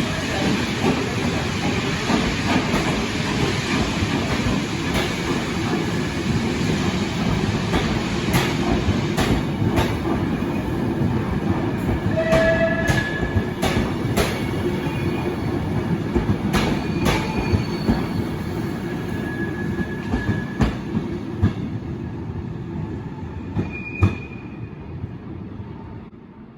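Train hauled by steam locomotive No. 131 rolling past, with a steady low rumble of wheels on track and irregular clicks as the wheels cross rail joints. Short wheel squeals come about twelve and twenty seconds in, and the sound fades away near the end.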